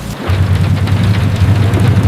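Rain falling steadily over a strong low rumble, the sound switching abruptly about a quarter second in.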